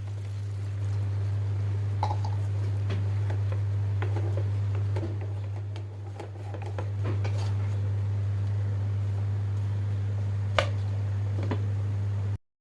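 A steady low hum with scattered light clicks and taps over it, and one sharper click about ten seconds in. The sound cuts out briefly just before the end.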